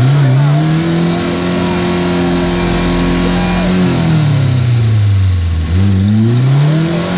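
Off-road vehicle's engine revving: held at high revs for a few seconds, falling back to low revs about five and a half seconds in, then revving up again near the end.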